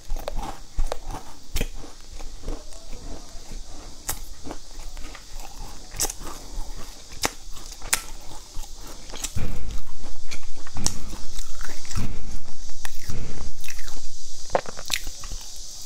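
A person chewing and biting into flaky fried pastry, with crisp crunches and crackles. A little past the middle comes a louder stretch of rapid chewing lasting several seconds.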